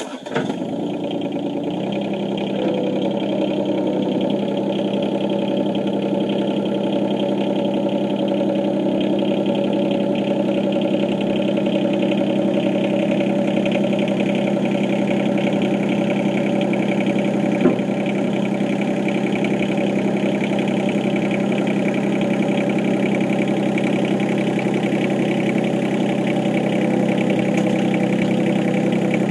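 Yanmar SC2450 compact tractor's diesel engine running steadily, close by, holding an even speed with no revving.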